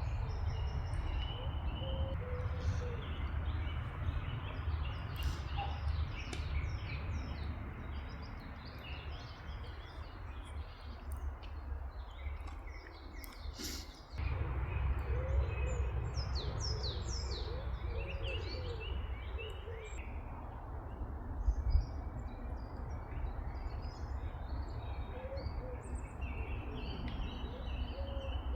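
Small wild birds chirping and singing, with many short high chirps and some lower warbling notes, over a steady low rumble. A single sharp click comes about halfway through.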